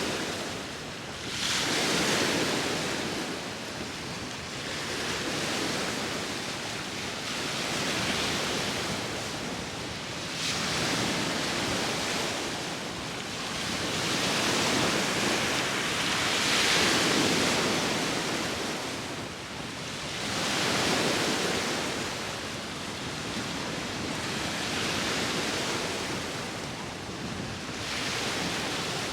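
Sea waves surging and washing onto the shore, each wave swelling and falling away every few seconds, with wind blowing.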